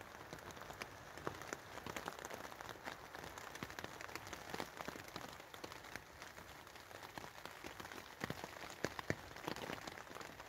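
Rain falling on a tarp shelter: a steady hiss dotted with many separate, irregular drop taps.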